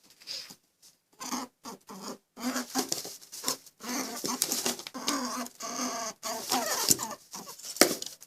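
A small animal making short pitched calls in quick, irregular runs, sparse at first and busier from about four seconds in.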